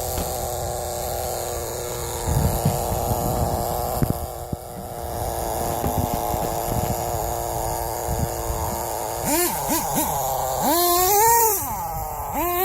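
Small SH18 nitro glow engine of an RC10GT radio-controlled truck running at a steady speed, then revved up and down several times in the last few seconds.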